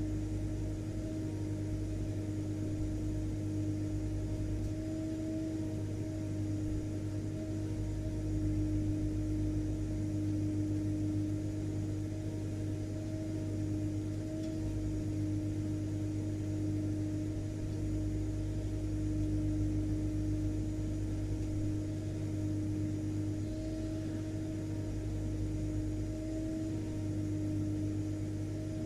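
Vacuum cleaner motor running continuously: a steady hum under even rushing air, with no change in speed.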